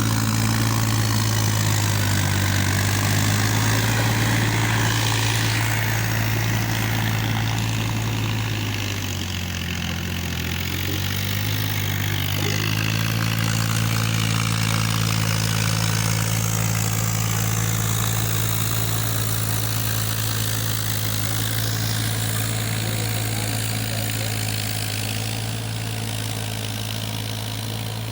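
Tractor engine running steadily. Its note drops and weakens for a few seconds about a third of the way in, as if under heavier load, then picks back up.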